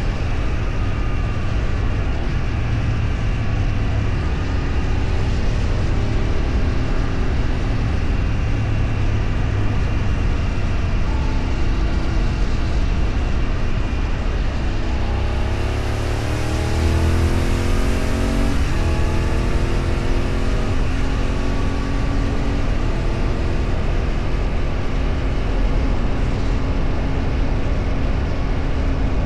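A vehicle engine running on the road under a constant low rumble of road and wind noise. About halfway through it accelerates, its pitch rising, then dropping at a gear change, before settling into a steady cruise.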